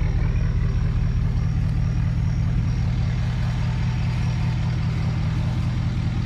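A car's engine running with a steady low hum.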